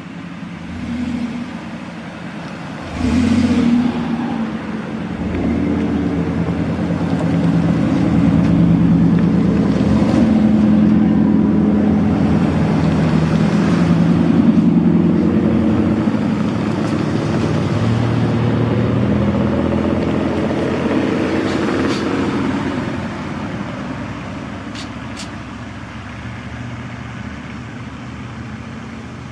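Large truck's engine running as the truck drives past, growing louder for several seconds and then fading away.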